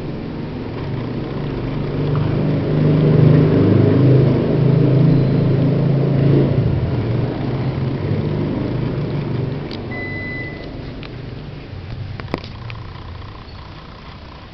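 A low rumble swells over the first few seconds and fades away after about ten seconds. Around then comes a single short beep, typical of a Panasonic air conditioner's indoor unit acknowledging a remote command. A sharp click follows a couple of seconds later.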